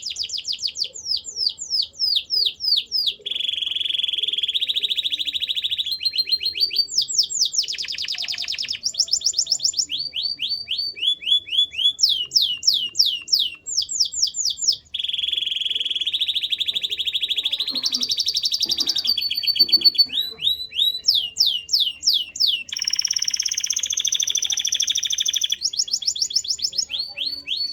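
Canary singing a continuous song, alternating phrases of quick repeated downward-sweeping notes with long rolling trills, three of which come a few seconds in, midway and near the end.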